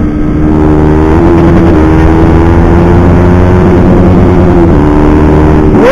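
Honda CBR150R facelift's single-cylinder engine running loud through an aftermarket exhaust under hard acceleration, its pitch climbing slowly and then holding high.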